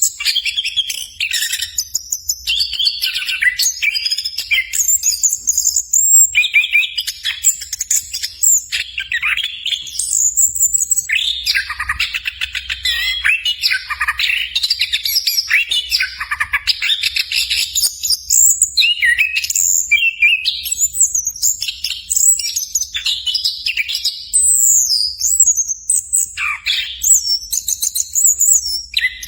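Orange-headed thrush singing: a long run of fast, varied, high warbling phrases with short pauses between them.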